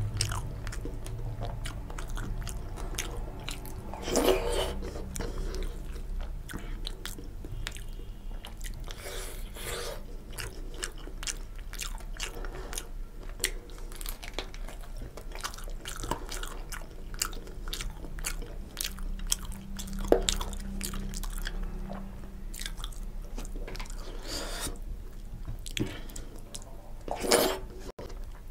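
Close-miked chewing and wet mouth sounds of a man eating soft khichuri and fried hilsa by hand, with fingers squishing the rice on the plate between mouthfuls. There are many small smacks and clicks, a few louder bites about four seconds in, around twenty seconds and near the end, over a low steady hum.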